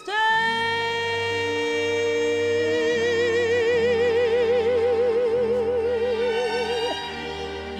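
Female jazz singer holding one long note with a wide, even vibrato on the word "stay", over sustained accompaniment chords; it eases off about seven seconds in. A CD recording played through ATC SCM20 loudspeakers and picked up by a microphone in the room.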